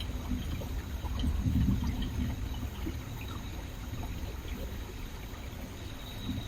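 Stream water running and trickling over rocks: a steady rush that swells louder for about a second, a little over a second in.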